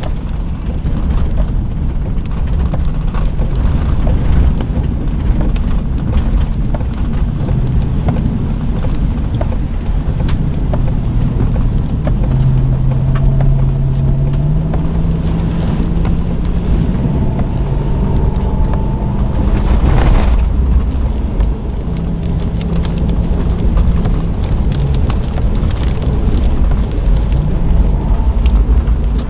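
Car driving at speed, heard from inside the cabin: steady low engine and road rumble, with the engine note stepping up in pitch about halfway through.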